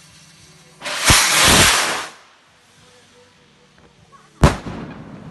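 Firework rocket launching with a loud rushing whoosh lasting just over a second, then, about two and a half seconds later, one sharp, very loud bang as it bursts, echoing away afterward.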